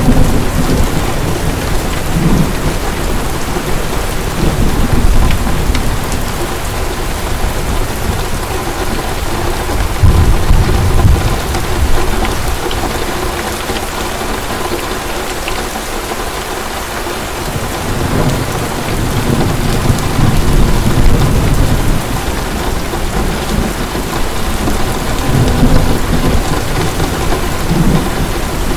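Heavy rain falling steadily, with rolling thunder swelling and fading in low rumbles several times, loudest about ten seconds in and again after the middle.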